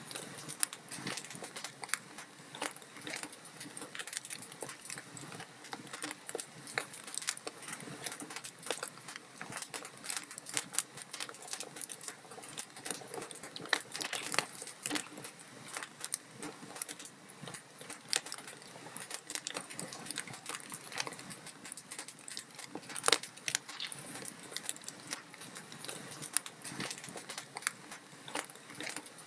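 Log fire crackling in a fireplace: a dense run of quick pops and snaps over a soft hiss, with a few louder snaps, the sharpest about three-quarters of the way through.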